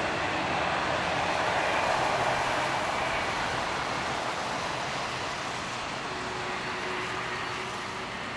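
Jet engines of a Qantas Airbus A330-300 during its landing rollout: a broad rushing noise that peaks about two seconds in and then slowly fades as the airliner slows on the runway.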